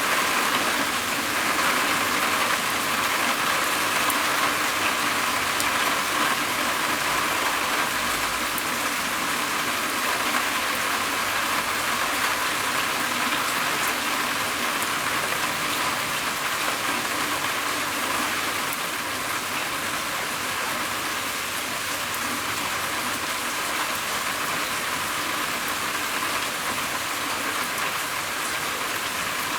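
Rain falling steadily on a roof, a dense even patter with fine scattered drop ticks, easing a little about two-thirds of the way through.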